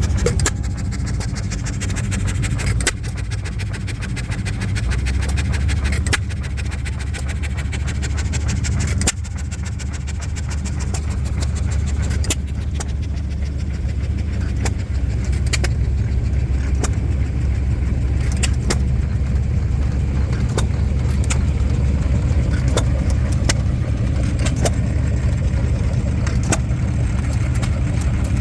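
An engine running steadily with a low rumble that grows heavier about five seconds in, with scattered sharp clicks over it.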